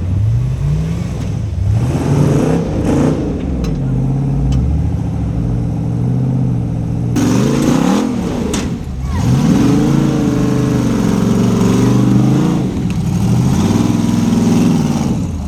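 Off-road rock-crawling rig's engine revving repeatedly, its pitch rising and falling with each blip of the throttle, getting louder about seven seconds in.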